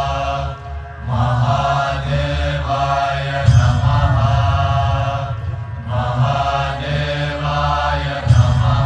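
Devotional chanting set to music: a voice chants in repeated phrases, each two to three seconds long, over a deep steady drone. There are two sudden heavy accents, one about three and a half seconds in and one near the end.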